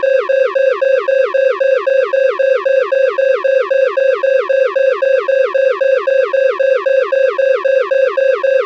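Loud electronic alarm tone repeating about three to four times a second. Each cycle is a short steady beep that drops quickly in pitch.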